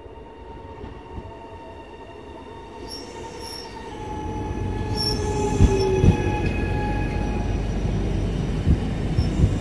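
Trenord ETR 425 electric multiple unit approaching and passing close by, growing much louder about four seconds in. Its electric motors whine and glide down in pitch as it passes, with a few brief high wheel squeals and sharp knocks from the wheels over rail joints.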